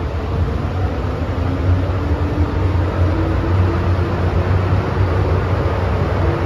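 Inside an MTR M-train electric multiple unit under way: a steady low rumble from the running gear with a faint motor whine that rises slowly in pitch as the train picks up speed.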